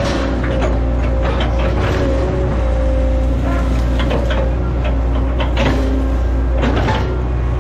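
Hitachi ZAXIS 110 excavator's diesel engine running steadily under load with a steady hydraulic whine, while irregular sharp cracks and knocks come from the machine's work chopping oil palm trees.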